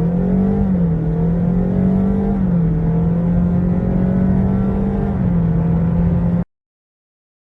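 Honda Vezel e:HEV's 1.5-litre engine running hard under full-throttle acceleration, its pitch stepping down and back up a few times. The sound cuts off abruptly about six and a half seconds in.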